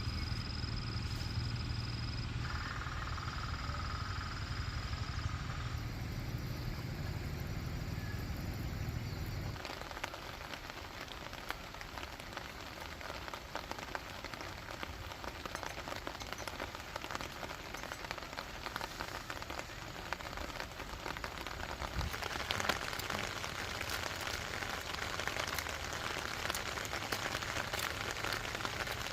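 Steady rain falling, an even hiss that gets heavier about two-thirds of the way in. During the first third a low steady rumble lies under it.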